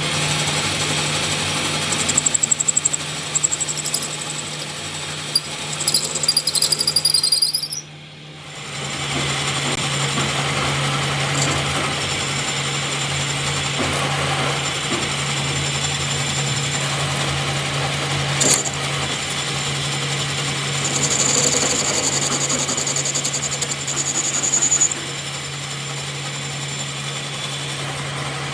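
Electric power tool running steadily with a motor hum, with high-pitched squeals from the work at times. It stops briefly about eight seconds in and then starts up again.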